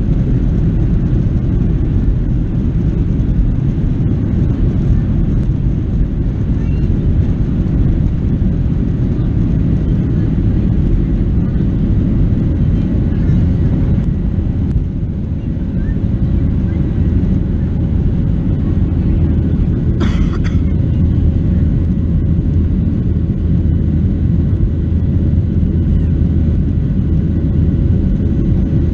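Steady cabin roar of a Boeing 737-700 in flight: its CFM56 jet engines and the airflow make a loud, even rumble with a faint steady hum over it. A brief sharp noise cuts in about twenty seconds in.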